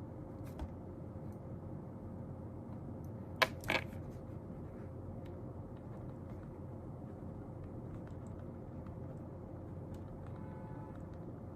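Steady room background noise with a faint hum, broken about three and a half seconds in by one sharp click and a brief scrape of a small object handled on a desk.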